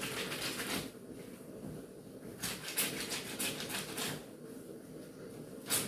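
Semi-automatic top-load washing machine running its wash cycle, a steady low hum, with noisy swishes in the first second, again from about two and a half to four seconds in, and once more near the end.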